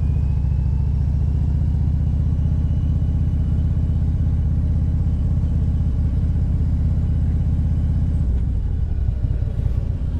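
Motorcycle engine running at low, steady speed, a low even rumble of firing pulses with faint wind noise. The engine note dips briefly near the end.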